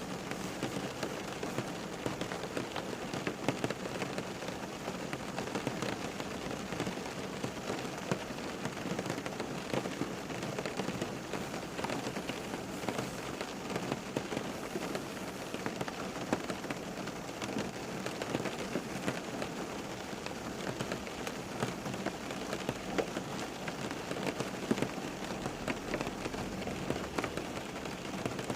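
Steady rain falling and pattering on a surface, dense drops without pause.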